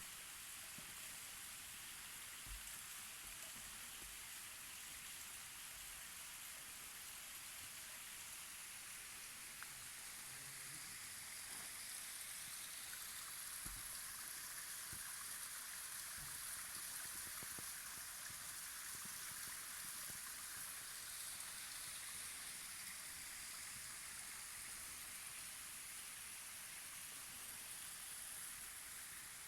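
Waterfall running steadily: a faint, even rush of falling water.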